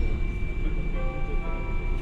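Hiroden 700-series streetcar running, with a steady low rumble from its wheels and motors; about a second in, an electronic chime of several held tones sounds over it.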